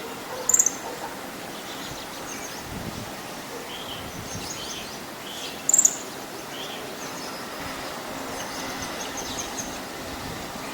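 Pale-billed flowerpecker calling: two sharp, very high chips about five seconds apart, with softer, lower chirps between them over steady outdoor background hiss.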